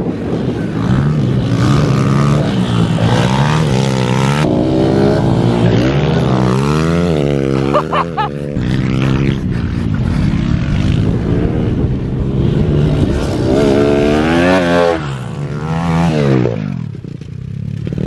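Minibike engines racing, revving up and falling back over and over as the riders throttle on and off through the corners, easing off near the end.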